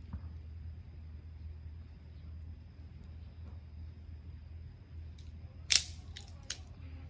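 Small wood bonfire popping: one sharp crack a little before the end, then two lighter pops, over a steady high pulsing chirp of insects.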